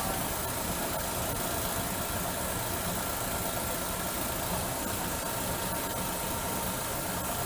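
Steady engine drone with an even hiss and a few constant hum tones, unchanging throughout.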